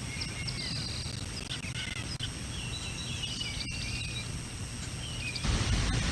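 Wind buffeting an outdoor nest-camera microphone with a low rumble while birds chirp and warble. About five seconds in, a strong gust hits the microphone as a loud rush of noise that drowns out the birds.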